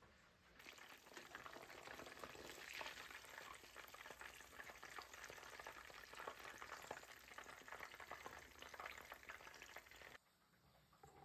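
Crumb-coated chicken fillets shallow-frying in hot oil in a pan: a steady crackling sizzle that starts just under a second in and cuts off suddenly near the end.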